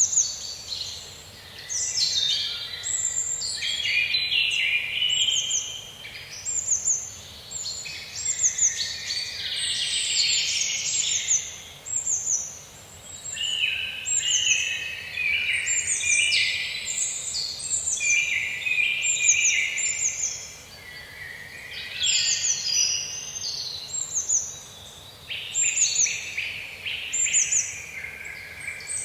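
Several songbirds singing over one another in a forest: a dense chorus of quick chirps and short falling whistles, with brief lulls every several seconds.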